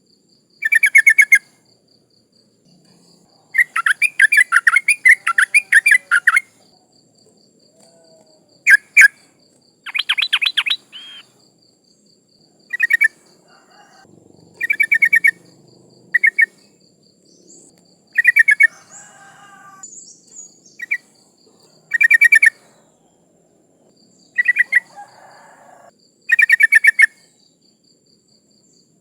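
Yellow-vented bulbul (trucukan), a female calling to males, giving short bouts of rapid chattering notes every second or two. A faint steady high pulsing whine runs behind.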